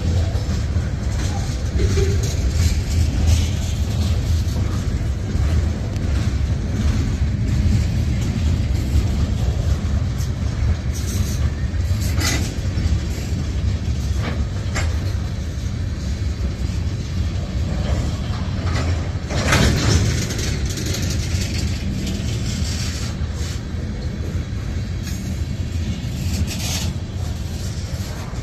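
Freight cars of a mixed freight train rolling past close by: a steady heavy rumble of wheels on rail with clatter, and a few sharper, louder moments, the loudest about twenty seconds in.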